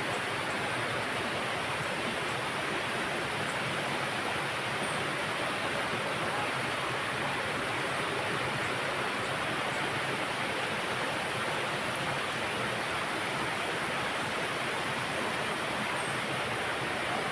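Steady rushing water, as of a stream or small waterfall, with no let-up. A few faint, brief high chirps sound over it now and then.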